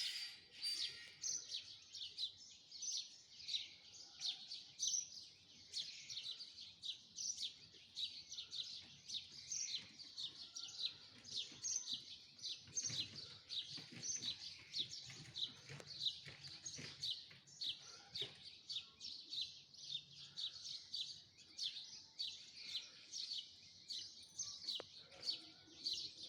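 Dense chorus of short, high chirps, several a second, running without a break.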